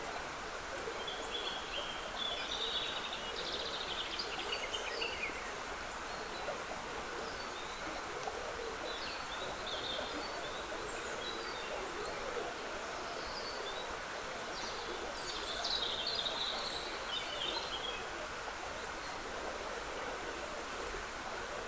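Steady trickle and rush of a woodland stream, with songbirds singing short phrases over it, busiest near the start and again past the middle.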